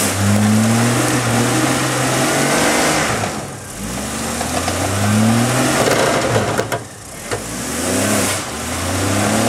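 Jeep engine revving in three bursts, each rising and then easing off, as it strains to climb out of a deep rut.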